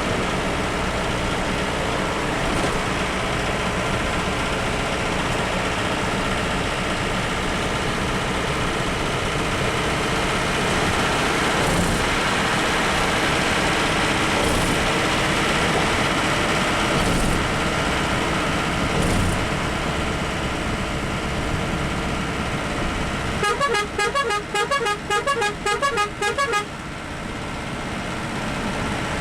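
Bus engine and road noise at speed, steady, then near the end a rapid string of horn toots, about four a second for roughly three seconds, as used when overtaking.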